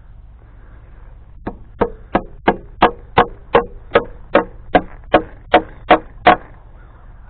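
Hammer driving fence staples into a wooden fence post to hold the brace wire: about fourteen ringing strikes at roughly three a second, starting about a second and a half in.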